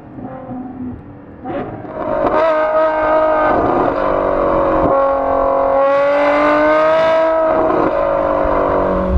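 Ferrari F12's 6.3-litre V12 with a Novitec Rosso exhaust, building from low to a loud, high-pitched note about two seconds in and holding it under hard acceleration, with a few brief breaks.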